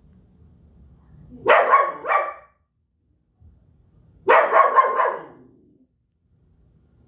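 Belgian Malinois barking loudly in short bursts: a pair of barks about a second and a half in, then a quick run of barks a few seconds later.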